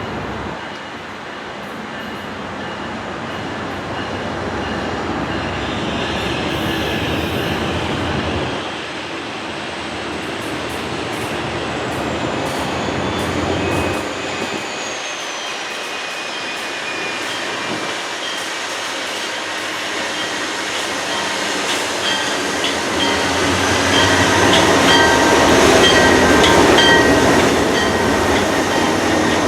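A train running on the rails, its rumble growing louder in the last few seconds, with short high-pitched wheel squeals near the end.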